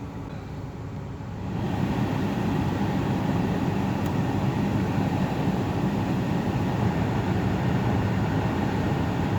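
2011 Dodge Journey running on a cold start, a steady mechanical noise that grows louder about one and a half seconds in and then holds.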